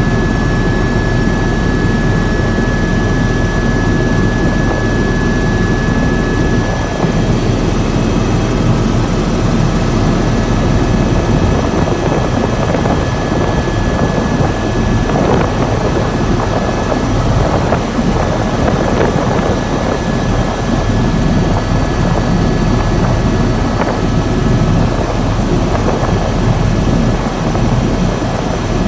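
Helicopter running steadily, a loud constant drone of rotor and turbine, with a thin high whine that weakens about seven seconds in.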